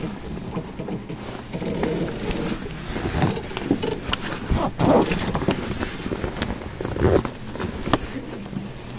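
Inside the car of a stopped electric train: a steady low hum from the train's equipment, with irregular knocks, rustles and short bursts of noise over it.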